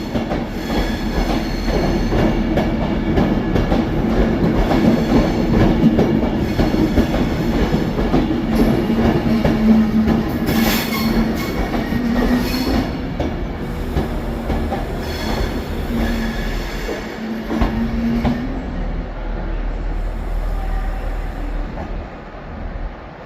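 Class 390 Pendolino electric train moving along the platform: wheels clattering over rail joints under a steady electric hum, fading near the end.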